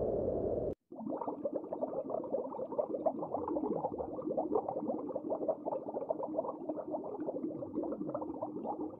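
A steady low rushing noise cuts off less than a second in. After it comes underwater ambience: dense, irregular crackling and popping with a faint steady hum underneath and an occasional falling whoosh.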